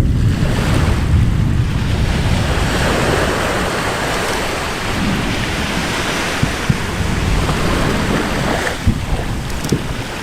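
Steady rushing roar over a deep low rumble, with a few short sharp cracks in the second half.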